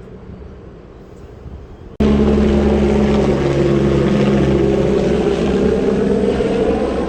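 Helicopter rotor and engine running close by, loud and steady, with a low droning pitch. It starts abruptly about two seconds in, after a quieter stretch.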